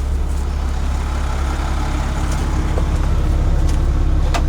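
1997 Blue Bird TC2000 RE school bus's rear-mounted engine idling steadily, with one sharp click near the end.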